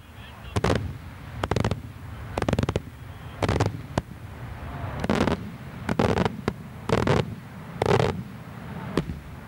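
Daytime fireworks bursting overhead: a string of about a dozen loud bangs, roughly one a second, several coming as quick doubled or clustered reports.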